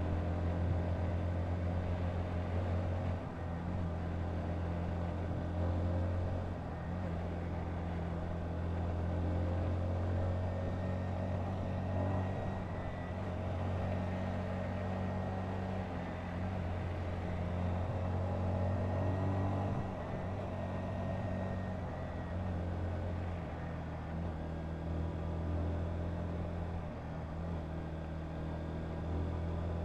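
Honda CBR125's small single-cylinder four-stroke engine running at a fairly steady pitch under way, with a few brief small dips in level.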